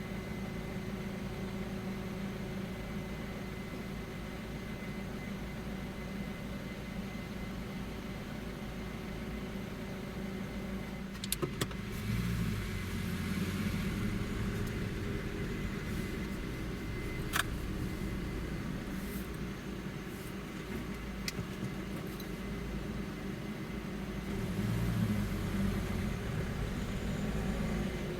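Car engine and road noise while driving, rising twice as the car pulls harder, with a few sharp clicks or knocks along the way.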